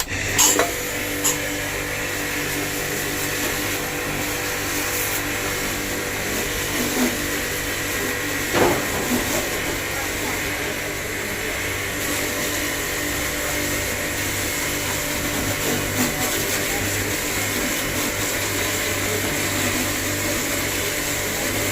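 Realme 11 kg top-load washing machine's motor and gearbox running under test, a steady mechanical hum that starts suddenly, with a few knocks about half a second in and again around the middle.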